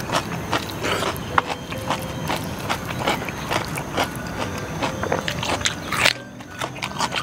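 Close-miked crunching and chewing of raw, crisp vegetable, with a run of sharp wet crackles and a louder crisp bite about six seconds in.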